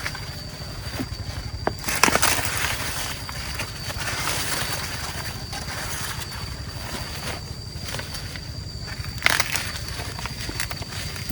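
Dry corn plants rustling and crackling as ears are picked by hand, with a few sharp snaps about 2 seconds in and again near the end. A steady high thin tone runs underneath.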